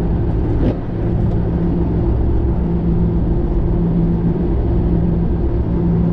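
Car engine droning steadily at cruising speed, with road rumble heard inside the cabin while driving.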